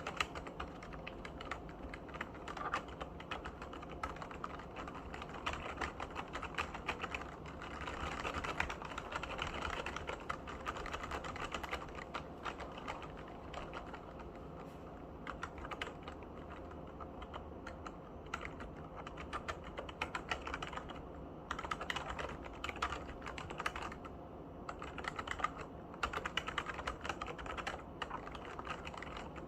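Keys of a Skydigital nKeyboard NKEY8K gaming keyboard being typed on: a continuous, irregular run of key clicks, busiest around a third of the way in and again past two thirds.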